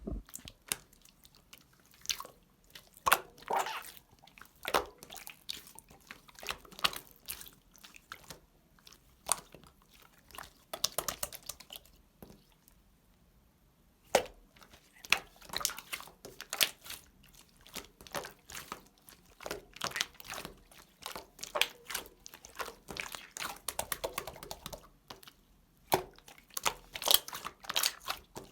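Slime being squeezed, pressed and stretched by hand, giving irregular crackling and clicking pops, with a short pause about halfway through.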